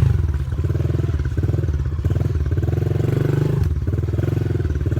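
Small 110cc dirt bike engine running hard in first gear, pulling through deep mud. Its revs rise and fall, with a short dip about three and a half seconds in.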